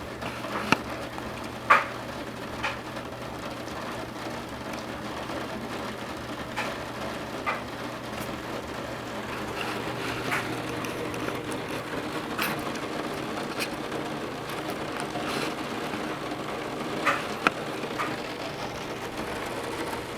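Heavy rain pouring down steadily, with scattered sharp taps of drops striking a hard surface, the loudest about a second in, about two seconds in and twice near the end. A steady low hum runs underneath.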